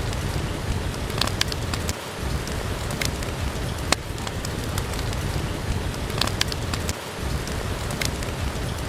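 Steady rain with a deep rumble underneath, dotted with scattered sharp clicks.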